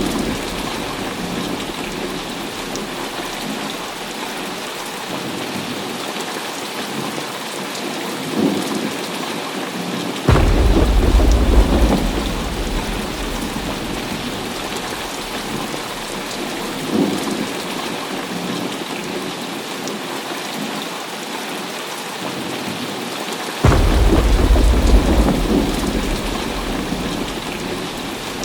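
Heavy rain falling steadily in a thunderstorm. Thunder breaks in sharply about ten seconds in and again about a dozen seconds later, each time a deep rumble that fades away over a few seconds.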